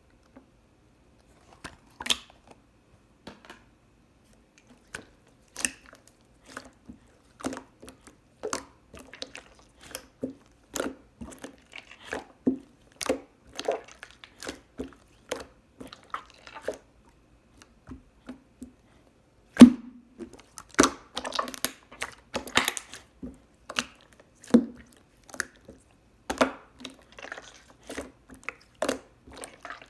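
Close-up chewing of fruit-shaped gummy jelly candy: irregular short mouth clicks and smacks, with the loudest click about two-thirds in and a busier run of chewing just after.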